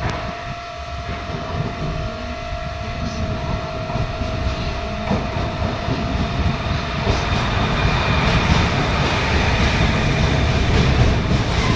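Class 256 electric locomotive hauling a container freight train as it approaches, its rumble and wheel noise growing steadily louder. A steady hum fades out about halfway through.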